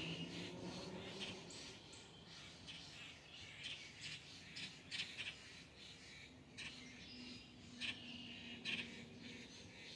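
Birds calling: a scattered run of short chirps and squawks, the loudest about five seconds in and again near the end, over a faint low hum.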